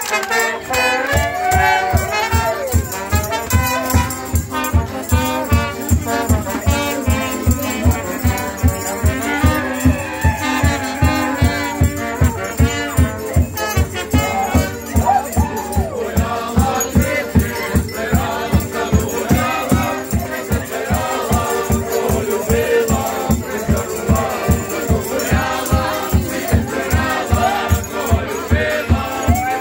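Festive folk music: a drum beats steadily about two and a half times a second under singing voices and melodic instruments, with a rattling percussion part.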